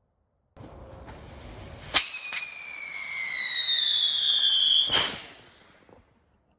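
A whistling firework: a fuse hisses for about a second and a half, then a sharp crack sets off a loud whistle that slowly falls in pitch for about three seconds and ends in a second bang.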